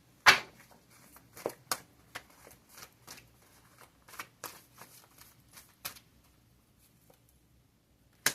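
A deck of cards being shuffled and handled: irregular sharp snaps and clicks, the loudest about a quarter second in, dying away after about six seconds, with one more click at the end.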